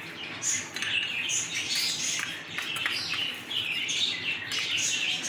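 Birds chirping in a quick, continuous run of short, high-pitched calls.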